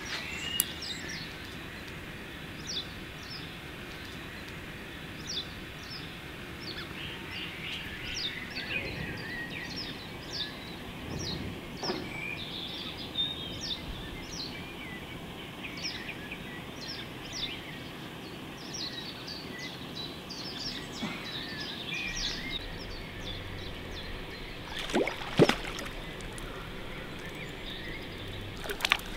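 Birds chirping and singing, many short calls scattered over a steady faint outdoor background. A few sharp knocks come near the end and are the loudest sounds.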